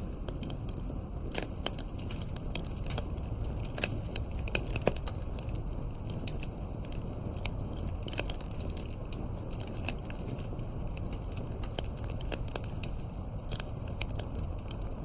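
Wood campfire burning, crackling with frequent irregular sharp pops and snaps over a low steady rumble.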